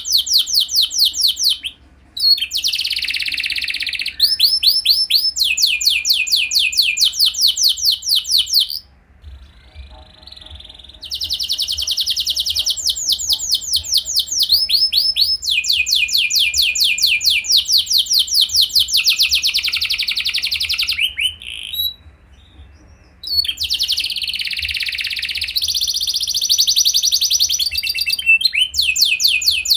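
Domestic canary singing long phrases of rapid trills and fast repeated high notes, broken by brief pauses three times.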